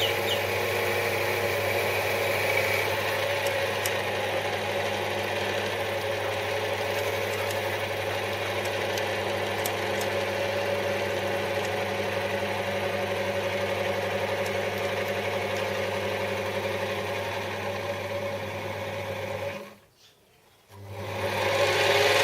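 Metal lathe running steadily, its motor humming while a centre drill cuts into the workpiece. The sound drops out for about a second near the end, then the lathe runs again.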